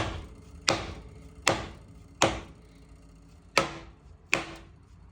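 Dead-blow hammer striking the stuck intake manifold of a Buick 350 V8 to break it loose from the heads. About six blows with a short ring after each, roughly one every three-quarters of a second, with a longer pause midway.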